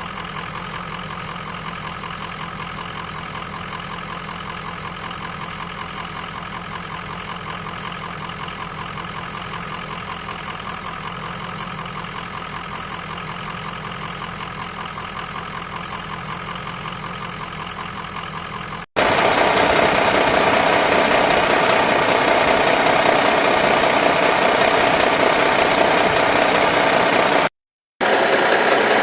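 Excavator engine running steadily. About 19 seconds in, it cuts abruptly to a louder, rougher engine sound, which drops out for a moment near the end.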